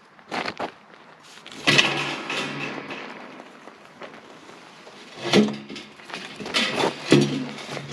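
Metal clanks from handling exhaust pipe and muffler parts: a loud clang a couple of seconds in that rings on and fades, then a few more ringing clanks near the end.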